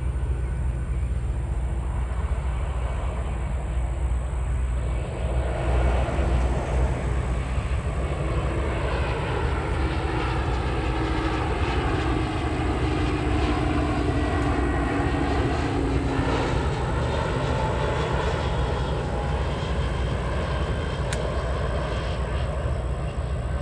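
Arriving airliner passing low overhead on approach to land. Its engine noise swells towards the middle, with tones sliding down in pitch as it goes by, then fades.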